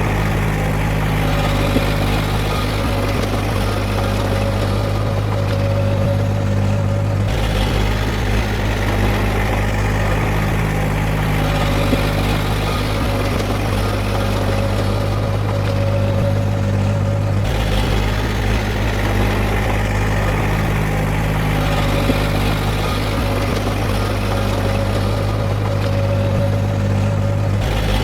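Heavy diesel engine of earthmoving machinery running steadily at a constant pitch, with abrupt shifts in the sound about seven and seventeen seconds in.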